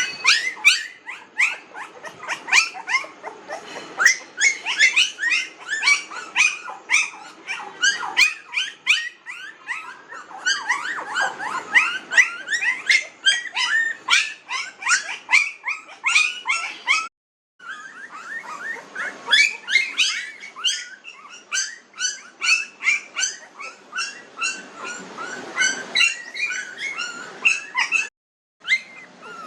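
A litter of very young puppies, about 19 days old, whimpering and squeaking: many short, high-pitched cries overlapping in quick succession, with two brief breaks in the sound.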